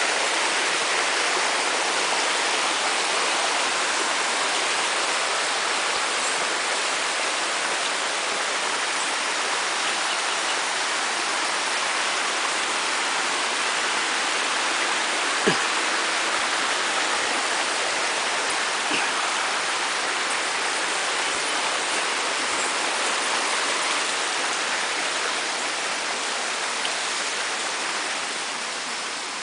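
Steady rushing of the 80-metre Itambé waterfall, a dense even roar of falling water, growing a little fainter near the end. There is a single sharp knock about halfway through.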